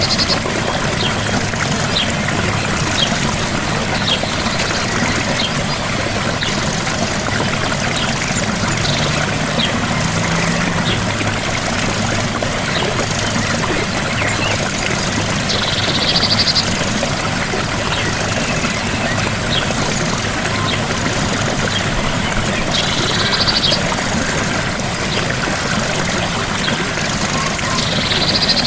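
Gentle waterfall: water falling and splashing in a steady, even rush. Brief high-pitched sounds come through it every several seconds.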